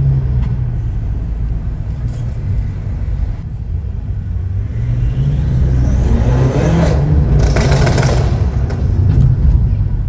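Stage 2-tuned BMW F10 M5 Competition's twin-turbo V8 running with a steady low drone, then revving up about five seconds in as the car accelerates. A brief rush of louder, harsher noise follows just before eight seconds in.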